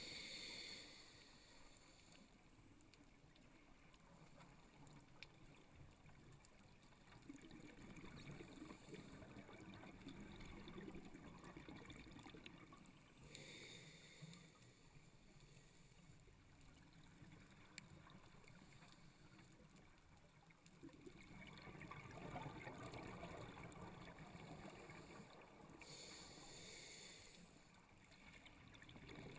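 A scuba diver breathing through a regulator underwater, heard faintly: short hissing inhalations about every 13 seconds, each followed by a longer bubbling exhalation.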